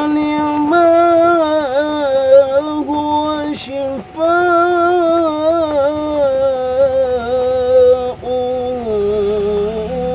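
Music with a single singing voice holding long, ornamented notes that waver and bend in pitch, with short breaths between phrases.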